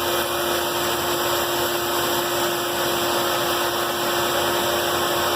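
Band saw running steadily, its motor and blade giving a constant hum over an even rushing noise.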